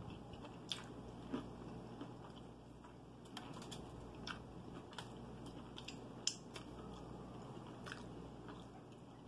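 A person chewing crispy fried chicken close to the microphone, with scattered faint crunches and mouth clicks over a low steady hum.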